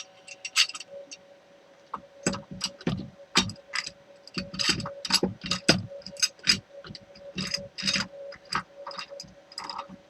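Small metal parts and hand tools clinking and knocking as they are handled at a workbench, in an irregular run of sharp clicks, some with a dull thud, over a faint steady hum.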